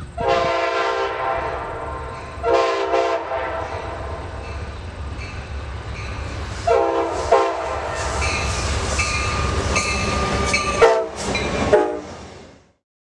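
Diesel locomotive's air horn sounding a series of blasts, long ones first and short ones near the end, over the steady low rumble of the train's engines and wheels. The sound fades out near the end.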